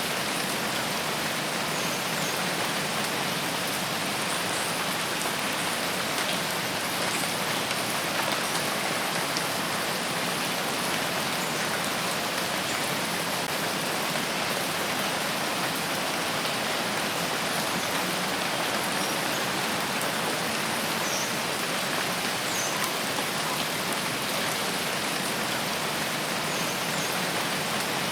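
Steady rain falling, an even, unbroken hiss of drops, with a few faint, brief high-pitched sounds over it.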